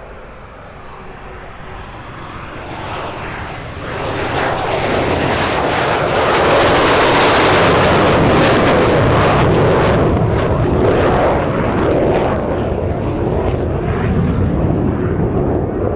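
Klimov VK-1F turbojet of a Lim-5 (Polish-built MiG-17F) jet fighter flying by: the roar builds from about four seconds in, is loudest a couple of seconds later for several seconds, then eases a little but stays loud.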